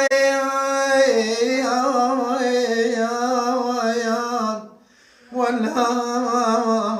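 A man singing long, drawn-out ornamented notes in the Iraqi Muhammadawi mawwal style, the pitch wavering on each held vowel. The voice breaks off for a moment a little past the middle, then starts a second long phrase.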